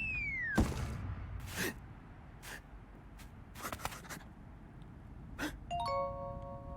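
Cartoon sound effects: a short falling whistle, then a handful of quick whooshes and hits. Near the end comes a chime of several held bell-like notes.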